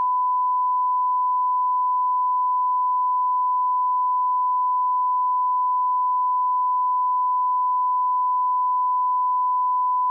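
Steady sine-wave line-up test tone at −18 dB, a single pure pitch held without a break, used as a reference level for calibrating audio equipment.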